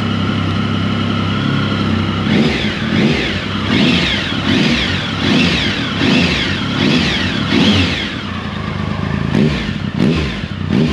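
Triumph Tiger 1050's three-cylinder engine, warmed up, idling steadily for about two seconds and then revved in a run of quick throttle blips, about one every three-quarters of a second, with a couple more near the end.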